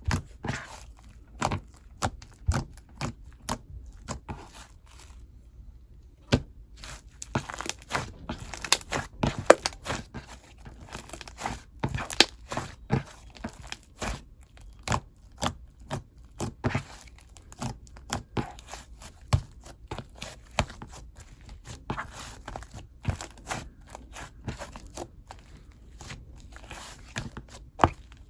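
Hands squishing and stretching soft, fluffy clay slime, giving a dense, irregular run of sticky clicks and crackly pops.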